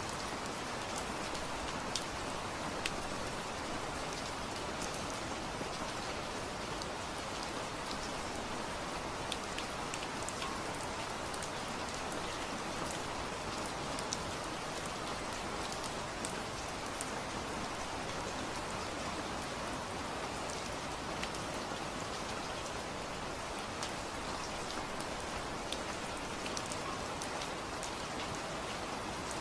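Steady rain falling, an even hiss with many scattered sharper ticks of individual drops hitting a surface.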